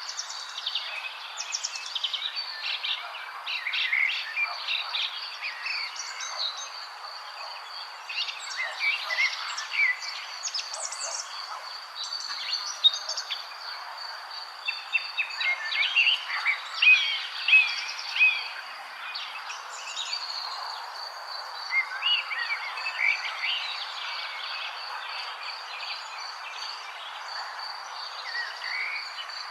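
Several songbirds singing and chirping in quick overlapping phrases, busiest around a third and a half of the way through. A steady high insect trill runs underneath.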